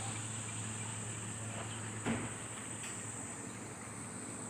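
Night ambience: steady high-pitched insect chirring over a low hum and a soft even hiss, with a single knock about two seconds in.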